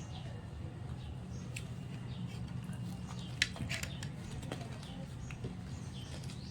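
Close-up eating sounds: crunching and chewing of crispy pata (deep-fried pork knuckle), heard as scattered sharp crackles and clicks over a steady low hum.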